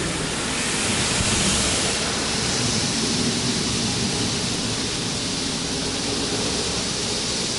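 Belanger Vector touchless car wash spraying high-pressure soap from one arm against the side of the car, a steady hiss of water jets hitting the body.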